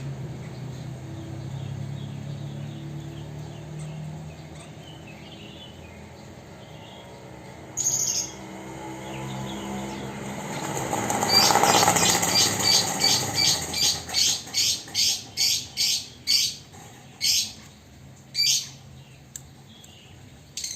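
Chinese hwamei (melodious laughingthrush) calling: a run of short, sharp, high notes repeated about twice a second through the second half.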